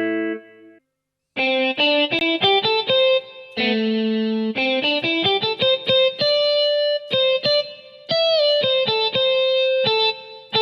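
Casio AiX keyboard playing a guitar tone: after a short silence about a second in, a run of single picked notes, with a couple of notes bent down and back up in pitch.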